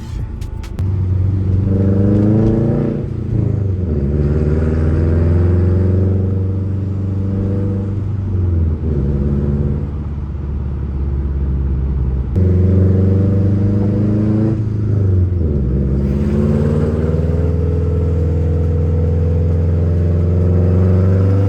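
Subaru WRX turbocharged flat-four running through a catless downpipe and Tomei catback exhaust, accelerating hard in two pulls. The exhaust note climbs in pitch and drops sharply at each of about three upshifts, with turbo noise audible under load.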